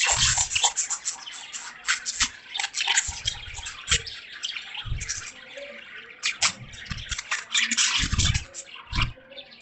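Pet budgerigars chirping and chattering in a dense run of short, sharp calls, over rain dripping and splashing, with occasional low thuds of water.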